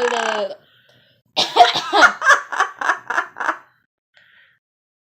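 The tail of a drawn-out call falling in pitch, then a laugh: a quick string of about eight short 'ha' sounds lasting about two seconds.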